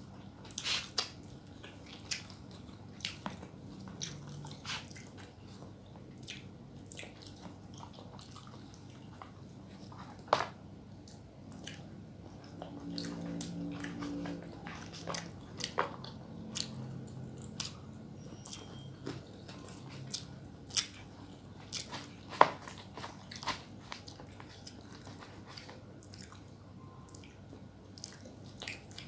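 Close-up eating sounds: chewing and biting with scattered sharp mouth clicks and small crunches.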